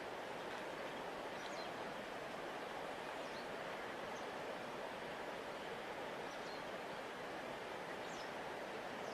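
A large river flowing, a steady rushing of water with no change in level. A few faint, short, high chirps come and go above it.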